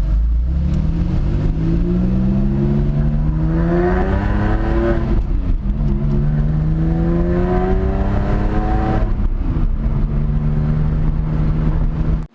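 Car engine accelerating hard: its pitch climbs for about four seconds, drops at a gear change, climbs again, then holds steady before cutting off abruptly near the end.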